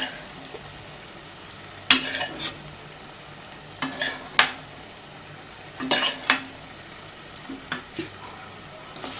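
Spoon stirring chicken pieces into sizzling korma gravy in a pan, clinking against the pan in pairs every couple of seconds over a steady sizzle.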